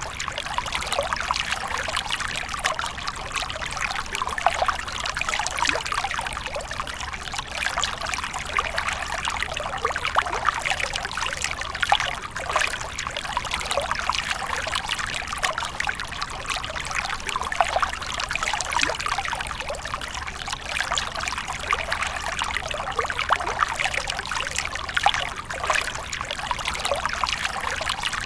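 Water splashing and trickling without pause, a constant patter of small splashes that is bright and has little deep sound.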